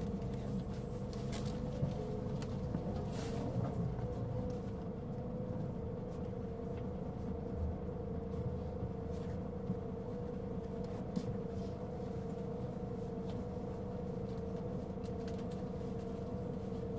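Inside a Mitsubishi Fuso Aerostar city bus (LKG-MP37FK, six-cylinder turbo-diesel): the drivetrain runs steadily with a low rumble under a steady whine. This is typical of the loud abnormal noise this bus was making, with a few faint rattles and ticks from the cabin.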